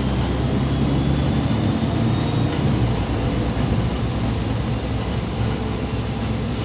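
MAZ 203.065 city bus under way, heard from inside the passenger cabin: a steady low rumble of the diesel engine and road noise, with a faint high whine that rises and then falls over the first few seconds.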